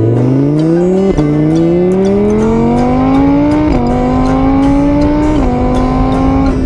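Car engine accelerating up through the gears: its pitch climbs, drops at each of three shifts, and climbs again.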